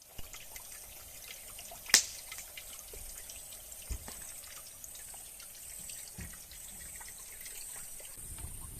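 Wood campfire crackling: scattered small pops and ticks, with one sharp loud pop about two seconds in. A faint steady high-pitched whine runs underneath.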